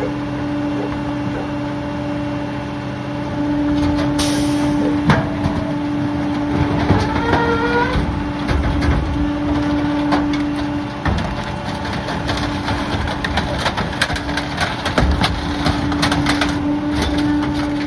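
Garbage truck's diesel engine running with a steady hum, a short air hiss about four seconds in, then squeaks and repeated cracking and clattering through the second half.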